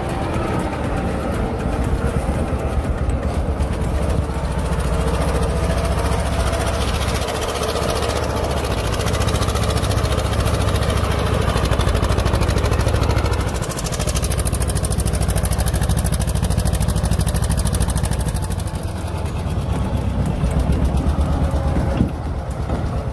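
Tractor engine running steadily and loudly with a fast, even pulsing rumble, dipping briefly about two-thirds of the way through.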